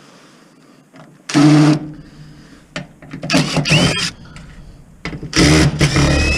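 A handheld power driver whirring in three short bursts, the last one the longest, as screws are driven out of a dishwasher's motor mounting.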